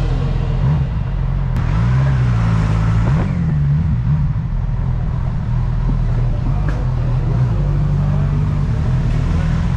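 Motorcycle engine running on the move under a heavy rumble of wind and road noise. Its pitch rises and falls a couple of times in the first few seconds as the throttle is opened and closed.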